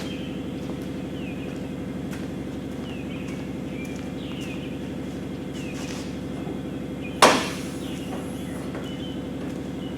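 Steady low machine hum with faint scattered clicks and short chirps, broken once about seven seconds in by a single loud, sharp bang.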